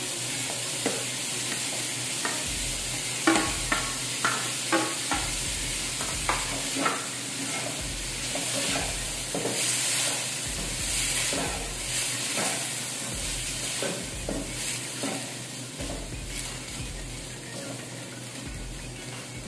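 Chopped hot dogs and chicken ham sizzling in a hot stainless steel pan, with a spatula knocking and scraping against the pan as the meat is stirred. The knocks are most frequent in the first half.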